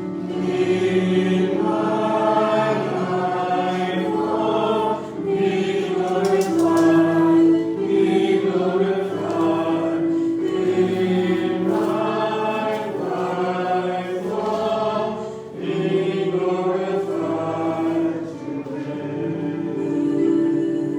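A church congregation singing a slow hymn together, long held notes with short breaks between phrases.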